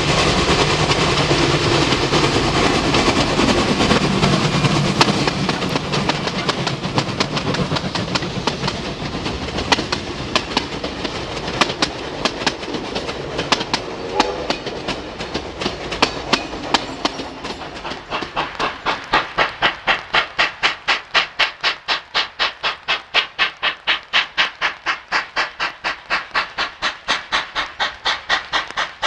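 A steam-hauled train running past with a heavy rumble that fades. It gives way to a very regular, quick beat of about three sharp pulses a second, which carries on as the train runs on.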